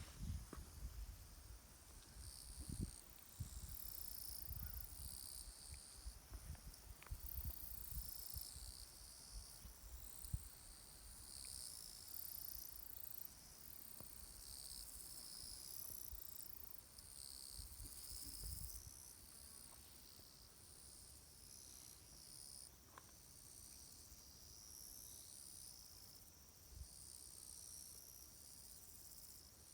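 Insects trilling in high-pitched, overlapping bursts that start and stop every second or so. Low rumbling and soft thumps sit underneath for the first two-thirds, then die away.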